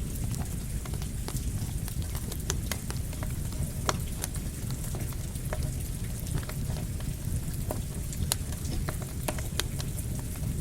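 Campfire crackling, with frequent sharp irregular pops and snaps, over a steady hiss of falling rain and a low rumble.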